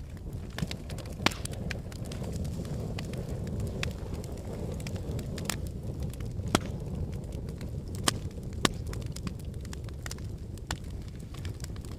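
Logs burning in a fireplace: a steady low rumble of the fire with irregular crackles and a few sharper pops, the loudest about a second in and several more past the middle.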